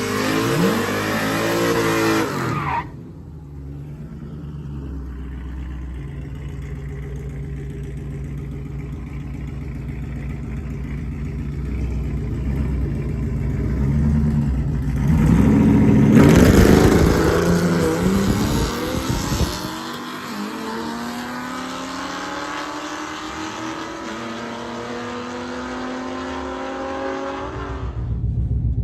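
Drag-racing car engines revving loudly, then a hard launch about halfway through, with the engine note climbing steadily as the car pulls away down the strip.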